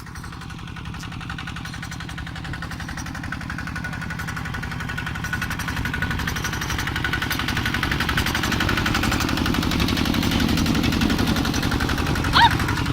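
A small engine running with a fast, even firing rhythm, growing steadily louder. A short high chirp sounds near the end.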